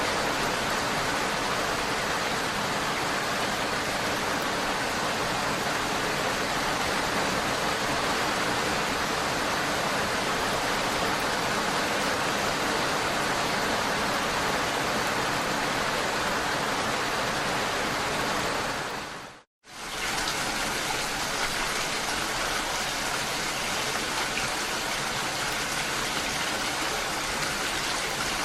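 Steady rain falling, an even hiss of drops. About two-thirds of the way through, the sound fades out to silence for a moment and comes straight back in.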